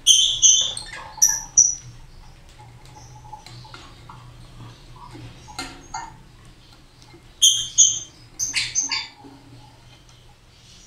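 Lovebirds giving short, high-pitched chirping calls in two bouts, one right at the start and another about seven and a half seconds in, with a few faint knocks and rustles of handling between.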